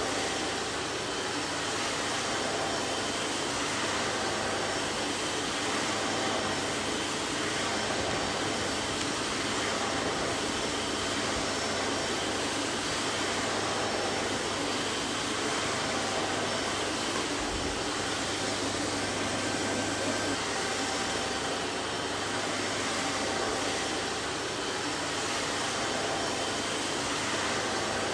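Vacuum cleaner running steadily: an even rushing noise of its motor and airflow with a faint low hum and a few thin steady tones, no change in speed.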